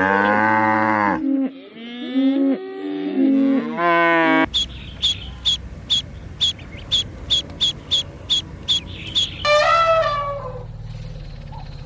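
Cow mooing: one long moo, then several shorter moos over the next few seconds. A run of sharp ticks follows, about three a second for some five seconds, then a brief falling call near the end.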